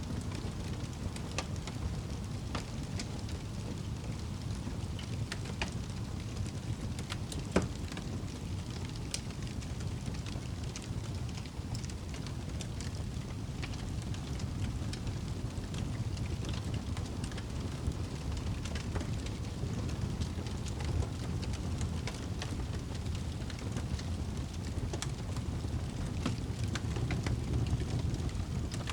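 Wood fire burning in a fireplace: a steady low rumble of flames with frequent small crackles and pops of burning logs, one sharper, louder pop about a third of the way in.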